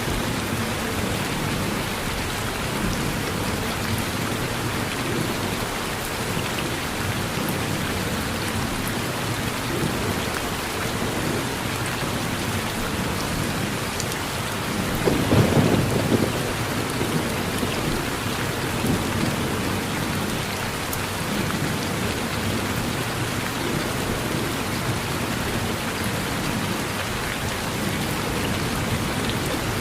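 Steady rain falling, with one short low rumble of thunder about halfway through.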